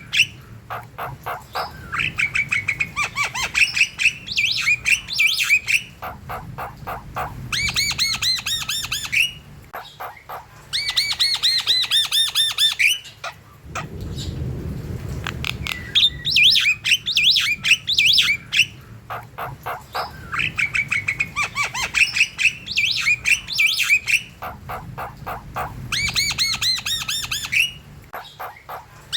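Javan myna in full song: bursts of rapid clicks run into fast trains of high, chirping whistles, repeated phrase after phrase. There is a short break about halfway through.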